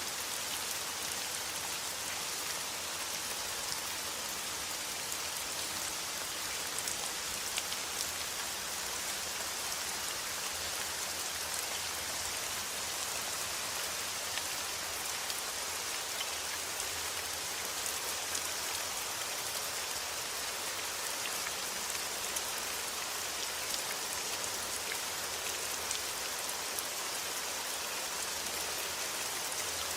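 Steady rain falling: an even hiss with a dense patter of individual drops striking a surface.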